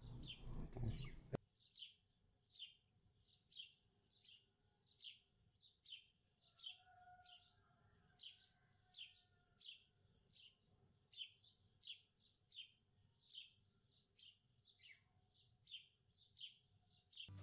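A small bird chirping over and over, faint and evenly spaced at about one or two chirps a second. Louder background room sound cuts off abruptly a little over a second in.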